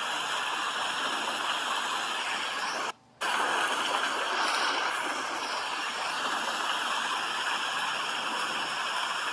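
Steady rain, an even hiss of falling water that drops out abruptly for a moment about three seconds in.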